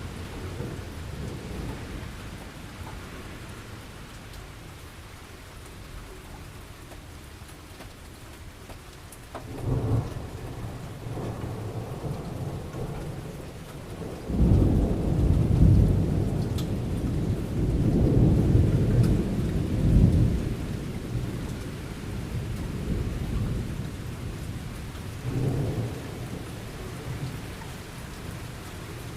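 Thunderstorm: steady rain falling, with thunder rumbling low over it. A short rumble comes about a third of the way in, a long heavy roll of thunder lasts several seconds around the middle, and a smaller rumble comes near the end.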